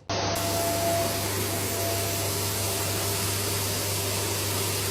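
Loud, steady whooshing noise of a motor-driven appliance blowing or drawing air, with a low hum underneath. It starts abruptly and holds level.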